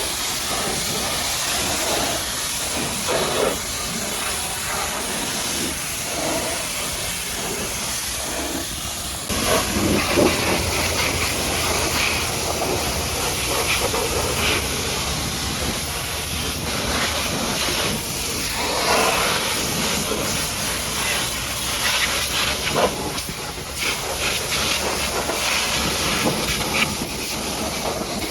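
High-pressure washer jet spraying water, a loud steady hiss. About nine seconds in the sound shifts and gains a deeper low rumble, with brief louder spurts here and there.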